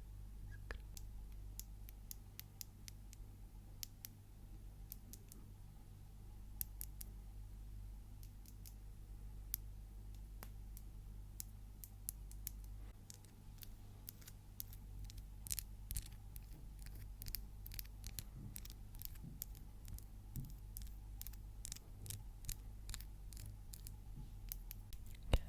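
Long fingernails tapping and clicking in short, crisp strokes, sparse at first and coming thicker and faster in the second half, over a faint low hum.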